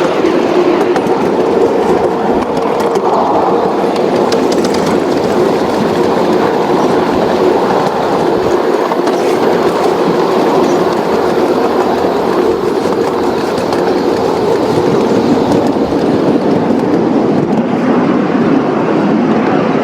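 A train running along the track: a steady sound of wheels on rails with a constant hum and some light clicking.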